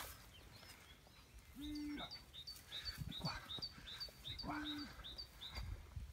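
A bird calling with a quick run of short high chirps, about three a second, through the middle. Twice a short, low, steady tone sounds, louder than the chirps.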